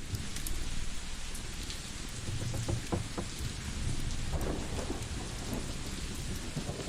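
Steady rain with low rumbles of thunder swelling twice, and scattered sharp crackles from a wood fire.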